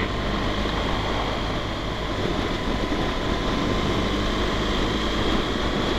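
BMW R1200GS motorcycle's boxer-twin engine running steadily under way, mixed with wind rush at riding speed.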